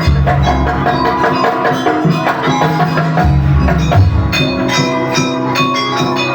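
Jaranan dance music: drums with deep repeated beats under ringing gamelan-style metal percussion and sustained pitched tones, playing continuously.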